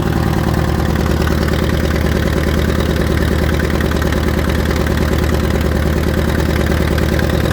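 Allis-Chalmers farm tractor engine idling steadily with a low, even running note.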